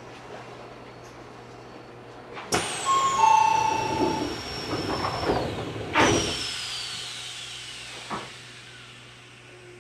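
Inside an Odakyu 8000-series commuter train at a station: a sudden loud rush about two and a half seconds in with a whistling tone that falls in pitch. A second sudden rush with another falling tone comes about six seconds in, then a single knock before it settles.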